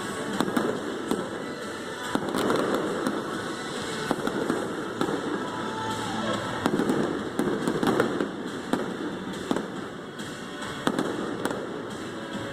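Fireworks display: a rapid string of bangs and crackling bursts over music playing on loudspeakers.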